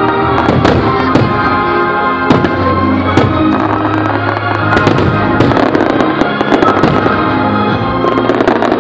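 Aerial fireworks shells bursting in many sharp bangs over steady fireworks-show music.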